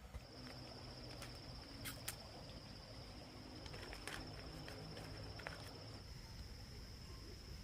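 An insect trilling in one steady high-pitched note that starts just after the beginning, with a few sharp clicks and taps over it.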